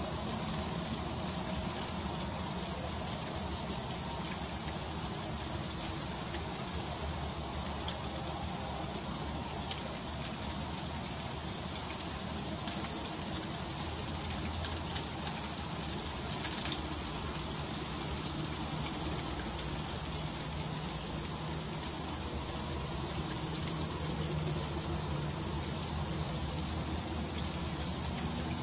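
Freezing rain falling steadily in an ice storm: an even hiss with many fine ticks of drops striking icy surfaces, over a faint steady low hum.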